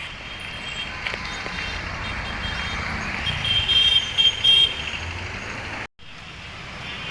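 Street traffic noise at a busy crossroads, with a few short high horn toots around the middle; the sound cuts out abruptly for a moment near the end.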